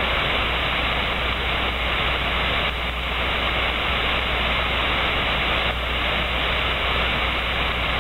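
Steady radio static from an 11-metre CB receiver with no station transmitting: an even hiss of band noise, narrowed by a 4 kHz receive filter, with a steady low hum underneath.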